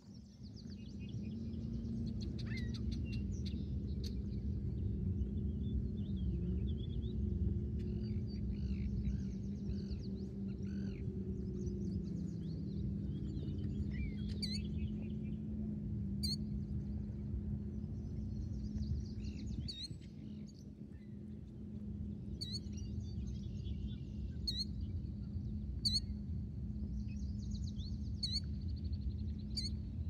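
Small birds chirping and singing, with a run of sharp, high chirps repeated every second or two in the second half, over a steady low rumble and hum.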